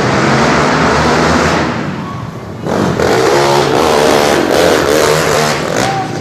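Several motocross bikes racing past with their engines revving, the pitch rising and falling as the riders work the throttle. The sound dips briefly a couple of seconds in, then comes back loud.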